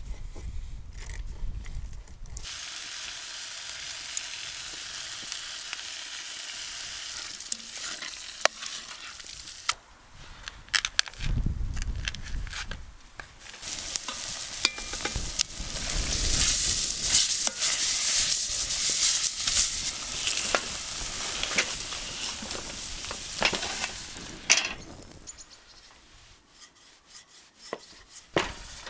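Food sizzling in a hot pan, stirred, with scattered clicks and scrapes of a utensil. The sizzle grows louder about halfway through and fades out near the end.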